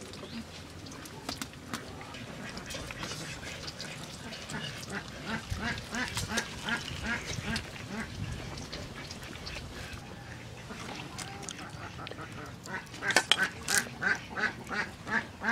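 A bird calling in quick runs of short repeated calls, about four a second, with a louder run near the end.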